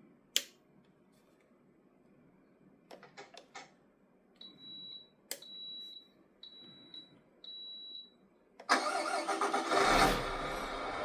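A few small clicks, then four short high electronic beeps, then the Tamiya MFC-03 sound unit's simulated Scania diesel engine sound starting up suddenly near the end and running on at idle through the truck's speaker.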